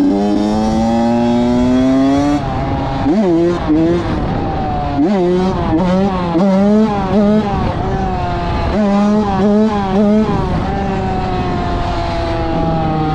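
A 2006 Honda CR85 two-stroke single-cylinder dirt bike engine revving. Its pitch climbs steadily for about two seconds, then a quick run of throttle blips rises and falls, and it settles into a steadier high rev near the end.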